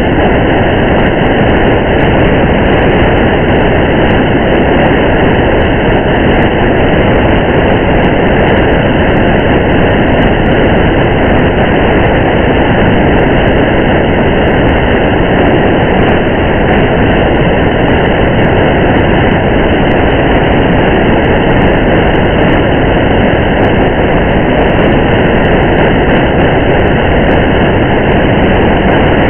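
Steady road noise and rain of a car driving through rain, an even, unchanging hiss with faint scattered ticks.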